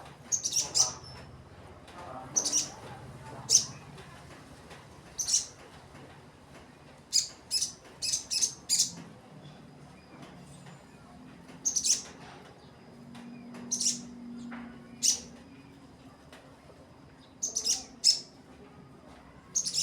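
Sogon bird calls: short, sharp, high-pitched chirps, some single and some in quick runs of two to four, coming every second or two, used as a lure call.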